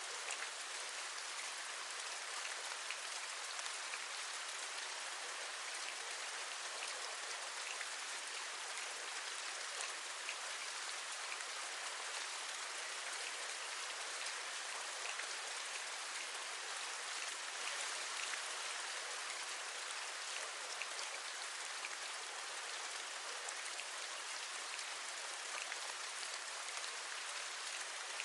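Steady rain, an even hiss with many small sharp drop ticks through it.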